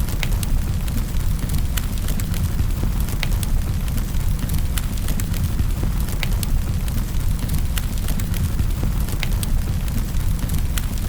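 Wood fire crackling in a fireplace: a steady low rumble of flames with sharp pops and snaps at irregular intervals.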